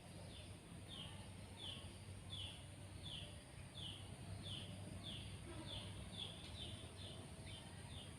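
A young sooty-headed bulbul (kutilang) calls over and over with short high chirps, each dropping in pitch, about three every two seconds. A steady low hum of background noise runs underneath.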